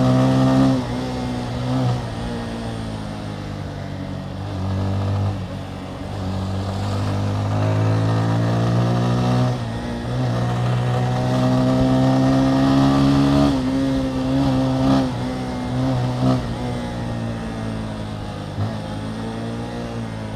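Motorcycle engine running under way, its pitch climbing slowly as it accelerates and then dropping back sharply about two-thirds through, with wind noise; a couple of short knocks come near the end.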